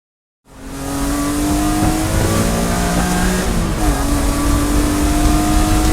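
BMW S54 straight-six engine in an E36 race car running, coming in about half a second in with a steady, even note that dips briefly in pitch and settles again a little before four seconds in.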